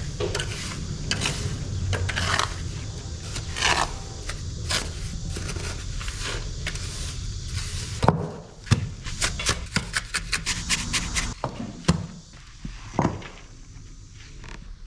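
Repeated hand-tool scraping and rubbing strokes on a hard surface. About eight seconds in they give way to a quick run of sharp knocks and clicks.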